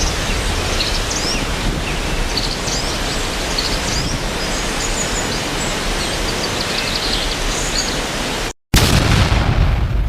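Steady outdoor noise, mostly wind rumbling on the microphone, with faint high chirps scattered through it. The sound cuts out for a moment about eight and a half seconds in, returns just as loud, then starts to fade near the end.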